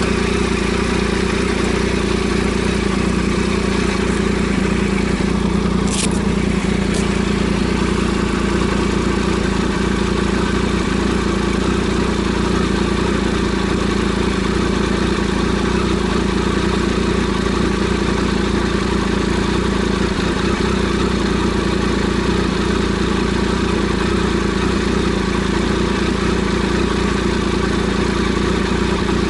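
Triumph Sprint ST 1050's three-cylinder engine running at a steady pitch with an even rush of wind and road noise, the bike holding a constant speed. A brief high sweep about six seconds in and a fainter one a second later.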